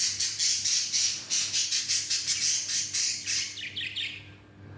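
Young budgerigars calling in a fast run of short, raspy squawks, several a second, which die away about four seconds in.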